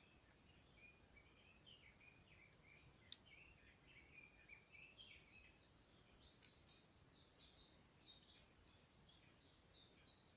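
Faint birdsong: small birds chirping in quick, repeated short notes, busier in the second half. There is a single sharp pop from the campfire about three seconds in.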